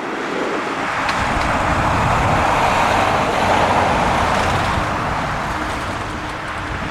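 Boeing 737 airliner's jet engines rushing past on final approach: the noise swells to a peak mid-way and then fades as it goes by.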